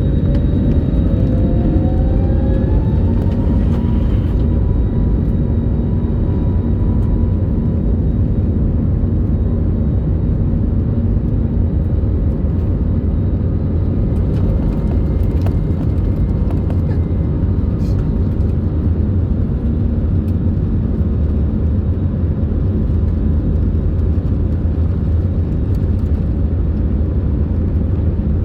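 Airbus A321's jet engines spooling up to takeoff thrust, a whine rising over the first few seconds, then a loud, steady rumble during the takeoff.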